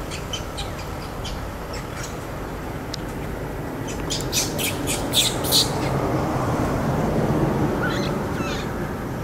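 Birds chirping: a quick run of short, high-pitched chirps about four to five and a half seconds in, with scattered single chirps around it, over a low background rumble that grows louder in the second half.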